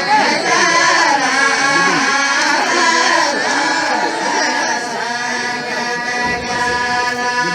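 A group of voices chanting a traditional Jazan tribal 'la'ib' chant together, the melody moving at first and then settling into long held notes.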